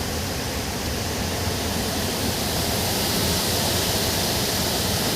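Steady rush of wind and road noise through an open car window while driving.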